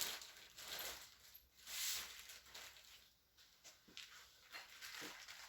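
Small metal parts and packaging being handled: scattered light clicks and a brief rustle about two seconds in.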